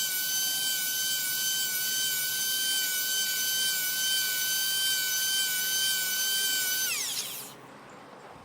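Benchtop jointer's motor running with a steady high whine while cedar strip edges are jointed smooth, then switched off about seven seconds in, its pitch falling as it spins down.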